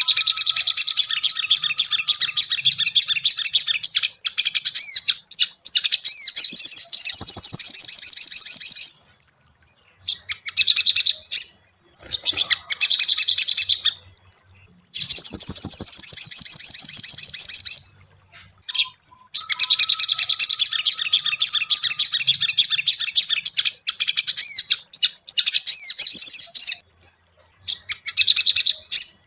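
Little spiderhunter (sogon) singing: long bouts of rapid, high chattering notes, broken by a few short pauses.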